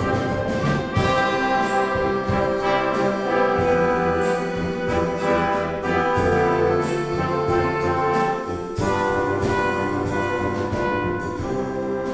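A wind band (banda de música) playing an arrangement of a rock song, with the brass (trumpets and trombones) carrying held chords and melody over a steady drum beat.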